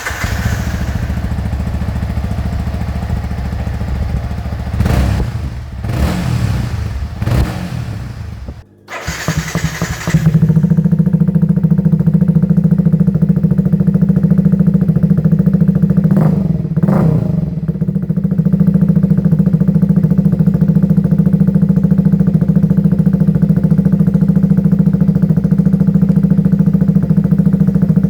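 Yamaha XSR 155's single-cylinder engine running through a custom exhaust: idling with three quick throttle blips, a brief break about nine seconds in, then a louder steady idle with one more blip of the throttle around sixteen seconds in.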